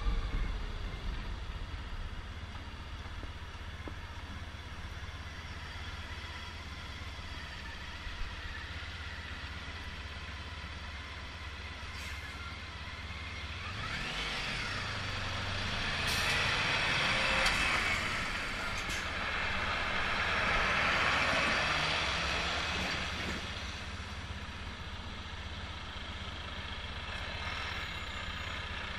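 Road traffic: a steady low engine hum. Passing vehicles grow louder from about halfway through and fade again, with a few sharp clicks among them.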